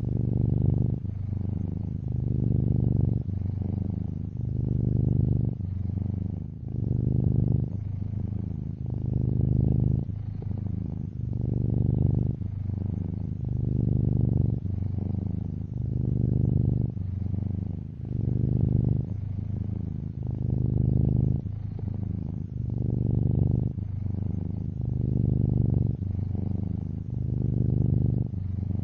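Domestic cat purring steadily close up, the purr swelling and easing with each breath, about one cycle every second and a half.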